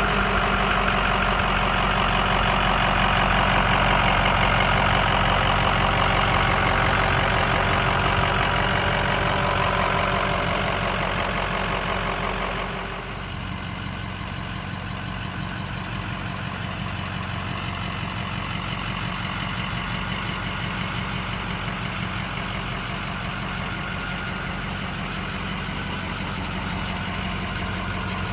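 Ford 6.0L Power Stroke V8 turbodiesel idling just after starting, steady and even. About thirteen seconds in the sound drops noticeably in level and becomes duller, then carries on steadily at the lower level.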